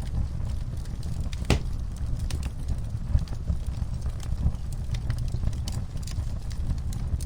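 Wood fire in a fireplace crackling: scattered sharp pops and snaps over a steady low rumble of the flames, with one louder pop about a second and a half in.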